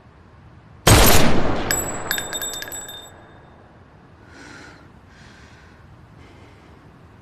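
A sudden loud crash about a second in, the kind of blast a gunshot or smash makes in a film soundtrack. High tinkling, like falling shards, rings through it as it dies away over about two seconds.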